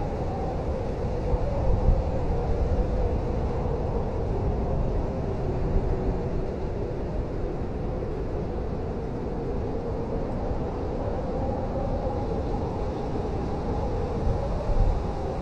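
Blizzard wind blowing steadily, with a deep rumble underneath and a faint whistling tone that wavers up and down in pitch, plus a few stronger gusts.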